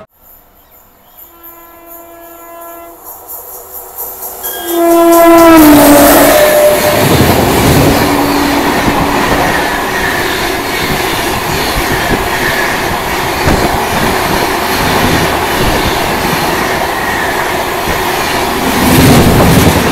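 Train horn sounding: a faint held blast, then a louder one whose pitch falls as it goes by. It is followed by the loud, steady rush and rumble of a train passing close.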